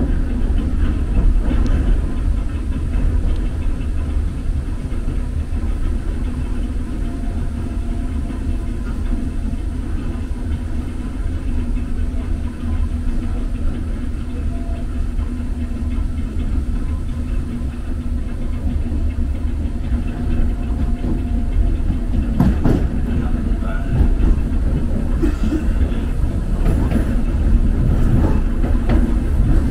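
DART electric multiple-unit train running, heard from inside the carriage: a steady low rumble of wheels on rail with a faint motor hum. In the last third a few sharp clicks and knocks as the wheels cross points.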